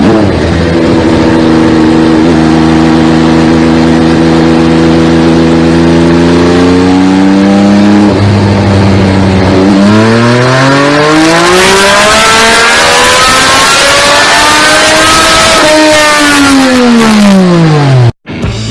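MV Agusta Dragster 800 RR's three-cylinder 798cc engine and exhaust, the engine note slowly rising for several seconds and then climbing sharply as the bike accelerates. The note holds high, falls away, and cuts off abruptly near the end.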